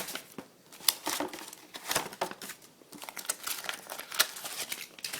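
Paper rustling and crinkling as manuals and papers are handled, with irregular sharp crackles.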